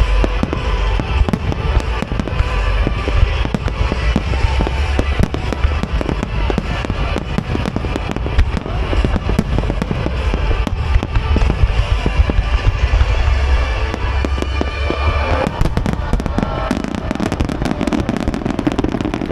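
Large starmine fireworks display: dense crackling and deep booms of many shells bursting together, with accompanying music. About 15 seconds in, the deep booms and music drop away while the crackling goes on.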